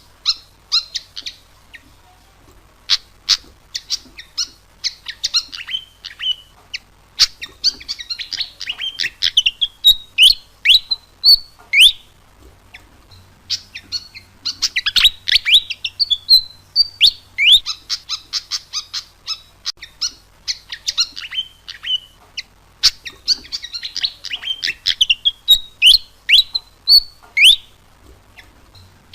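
Pied fantail (burung kipasan) singing: repeated phrases of rapid high chirps. Each phrase ends in a few quick upward-sweeping whistles, with brief pauses between phrases.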